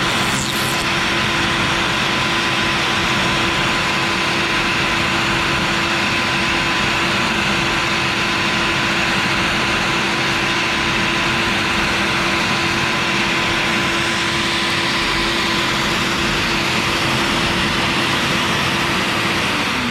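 CNC router spindle running steadily with a 1/4 inch O-flute bit cutting PVC: a constant whine over a broad cutting hiss. Near the end the spindle spins down, its whine falling in pitch, as the clearance pass finishes.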